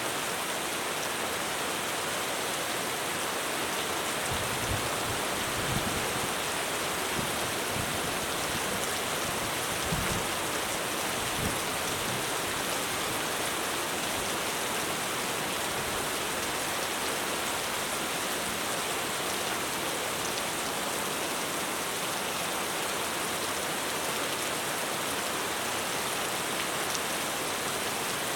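Heavy rain drumming steadily on a roof, a dense even hiss of drops. A few brief low thumps sound between about four and twelve seconds in.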